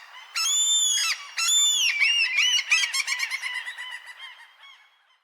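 A farm bird calling: three drawn-out squawks, then a quick run of shorter calls that slowly fade away.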